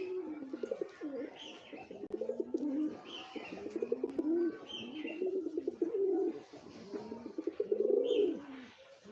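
Birds cooing over and over, the low rounded calls overlapping one another, with short high chirps every second or two.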